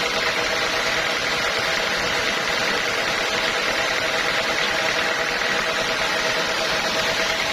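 Sawmill machinery running steadily, a constant loud mechanical noise with a steady hum and no pauses.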